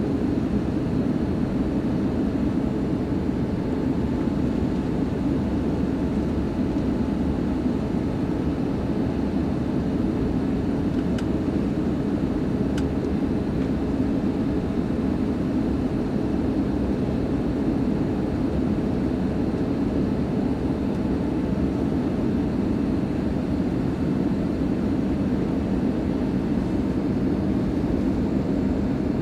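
Steady cabin drone of an Airbus A320-232 on its descent toward landing: the IAE V2500 (V2527-A5) turbofans and the airflow over the fuselage, an even low rumble that holds level throughout.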